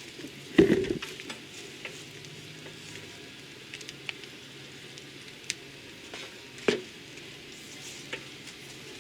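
Light rain pattering steadily, with scattered drips ticking and a few knocks, the loudest about two-thirds of a second in and another near seven seconds.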